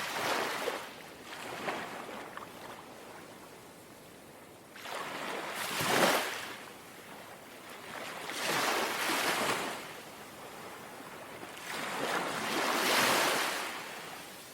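Small, gentle sea waves lapping and washing ashore, four swells of hiss each rising and falling away over a second or two, with quieter pauses between them.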